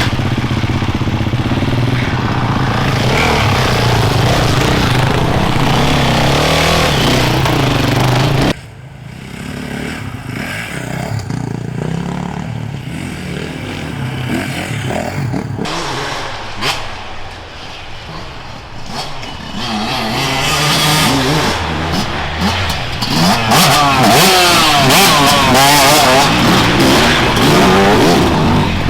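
Off-road enduro motorcycle engines: a bike running steadily close by, then an abrupt cut to quieter, more distant engine sound, and from about two-thirds of the way through, a bike approaching loud and revving, its pitch swinging up and down through the throttle and gear changes.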